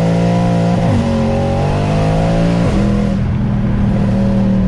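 Sports car engine and exhaust heard from inside the cabin, running loud and steady with shifts in pitch about a second in and again near three seconds, as under gear changes.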